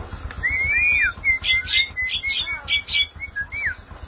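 Javan myna singing: a run of clear whistles that rise and fall, mixed with harsh, rasping chatter notes, starting about half a second in and stopping shortly before the end.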